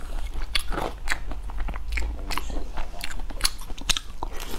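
Close-up chewing and biting of pan-fried buns (sheng jian bao), a quick, irregular run of short mouth clicks and smacks, with a fresh bite taken near the end.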